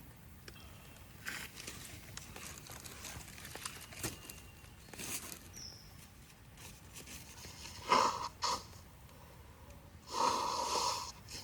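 Wood fire crackling with scattered small pops. About eight seconds in there is a short, louder cry, and near the end a second, longer one.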